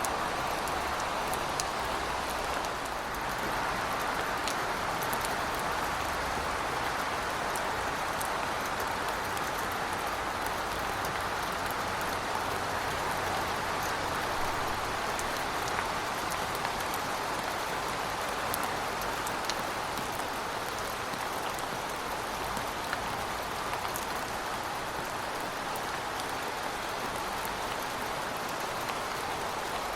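Heavy rain falling steadily, with scattered sharp drop ticks over an even hiss and a low rumble underneath.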